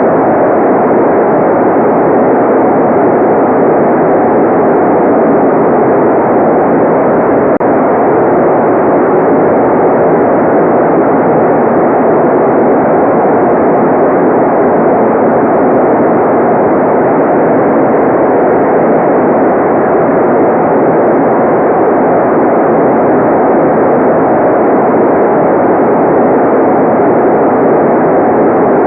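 Continuous generated white noise, steady and unchanging. Its strength sits in the low middle and the top is cut off, so it sounds like a dull, muffled rush with no high hiss.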